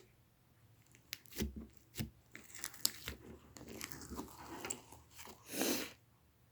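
Slime being squeezed and stretched by hand, giving irregular sticky crackles and pops, with a louder squelching burst near the end.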